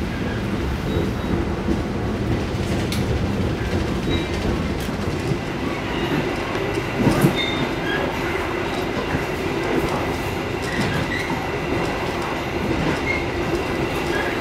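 Cabin noise inside a moving passenger coach, a 2016 INKA executive car: a steady rumble of wheels and bogies on the rails. A few knocks from the track, the loudest about seven seconds in, and short high squeaks come through now and then.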